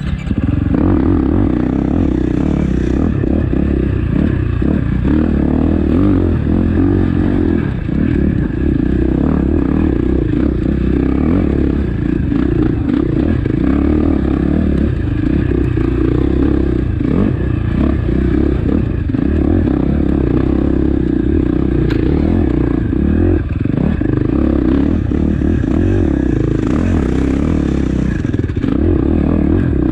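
KTM 450 XC-F's single-cylinder four-stroke engine running hard as the bike is ridden, picking up just after the start and then holding steady, with scattered short knocks from the bike over rough ground.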